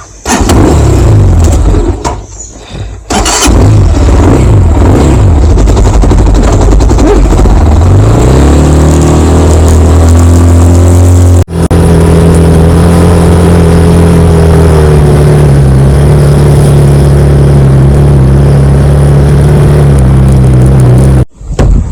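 Motorcycle engine running under way, under a loud rushing noise. Its note climbs as the bike accelerates about eight seconds in, breaks off sharply near the middle, then holds a steady pitch.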